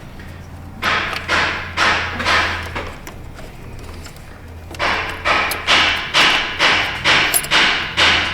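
Repeated sharp knocks with a short ringing decay: a few in the first three seconds, then after a pause a steady run of about two knocks a second.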